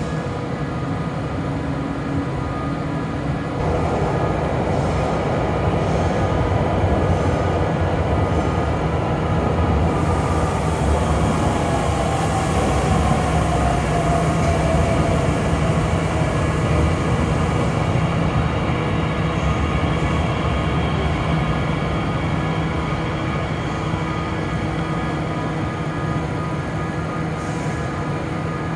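Bombardier Talent 2 (class 1442) electric multiple unit pulling out of the platform and running away down the tunnel, with a steady hum throughout. Its whine falls in pitch about halfway through.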